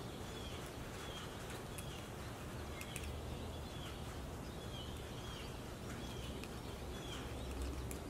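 A small bird chirping repeatedly in the background, short falling chirps about once a second, over a faint steady low hum.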